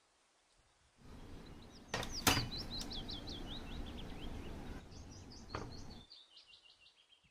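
A small bird chirping in quick runs of short, high, falling notes, over a rustling, crackly noise with a few sharp clicks that stops about a second before the end.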